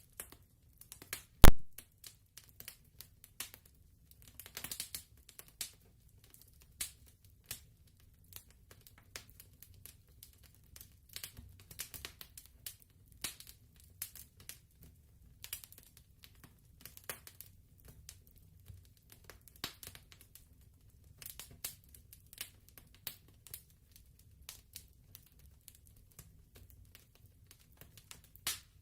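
Fireplace crackling: irregular snaps and pops, with one loud pop about a second and a half in.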